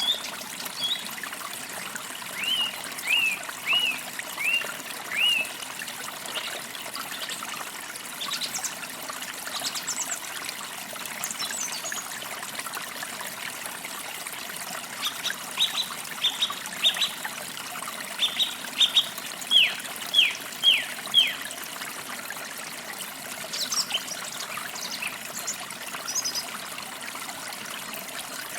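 Forest stream trickling steadily, with small songbirds singing over it in phrases of short, sharply falling whistled notes, a few a second, and some higher thin chips.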